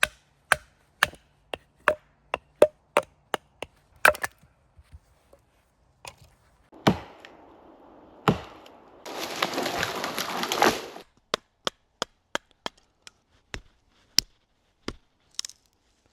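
Wood being chopped with a blade: a run of sharp blows, about two a second at first, then spaced further apart. About halfway through there are two seconds of scratchy noise.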